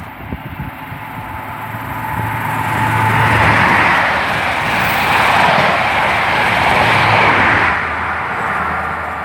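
A diesel High Speed Train (InterCity 125) passing through at speed. Its rushing wheel and air noise and low engine hum swell over a couple of seconds, stay loud for about four, then fade away.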